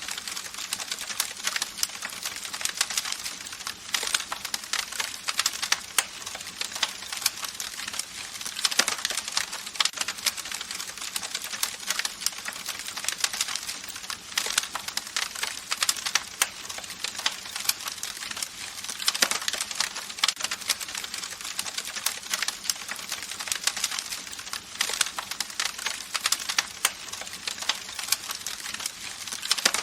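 Campfire crackling: a rapid, irregular stream of sharp pops and snaps over a steady hiss of burning wood.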